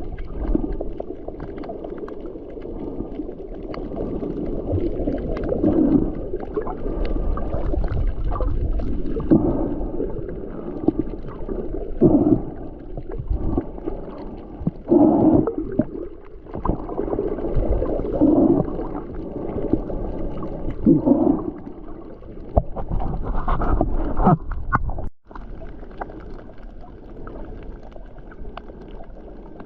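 Water sloshing and rushing against the hull of a moving boat, swelling in surges every few seconds.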